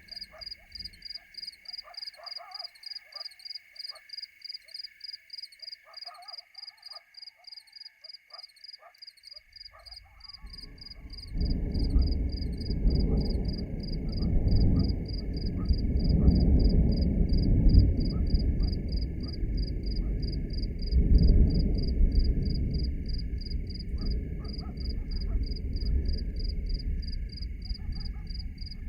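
A fast, even train of high chirps, about four a second, over a steady high hum. About eleven seconds in, a loud low rushing rumble comes in and swells and ebbs.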